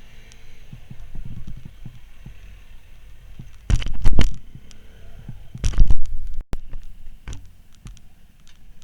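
Wind buffeting a motorcycle rider's microphone, an uneven low rumble with two loud blasts of wind noise a couple of seconds apart, about midway through.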